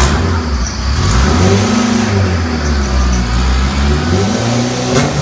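Turbocharged Honda K20 four-cylinder engine of an AWD Integra revving on the dyno, its pitch rising and falling in swells, with a sharp crack at the start and another near the end.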